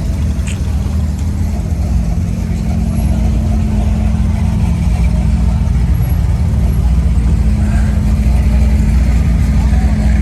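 A motor vehicle's engine running steadily with a low rumble, louder toward the end.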